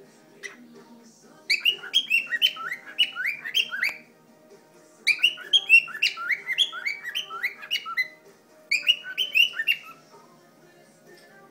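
Cockatiel singing: three bouts of quick chirping whistled notes, each note sliding downward in pitch, with short pauses between the bouts.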